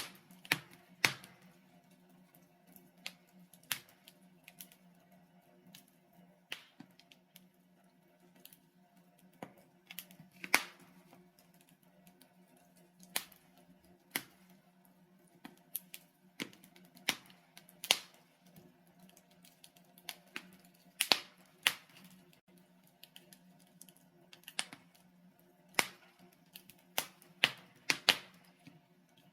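Wood fire of burning logs crackling: sharp, irregular pops and snaps, roughly one or two a second, over a faint steady low hum.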